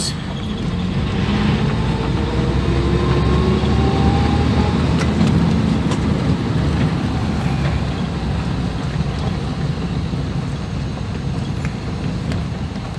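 1980 Land Rover Series III running on the move, a steady low engine and drivetrain rumble. Its pitch rises slowly over the first few seconds as it picks up speed, then holds steady.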